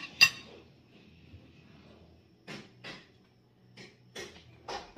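A person chewing food close to the microphone: a sharp click just after the start, then a run of short chewing sounds, some under a second apart, in the second half.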